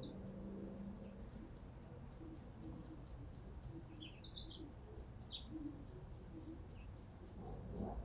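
Birds chirping faintly in the background: a steady series of short, high chirps repeating about four times a second, with scattered irregular chirps over it.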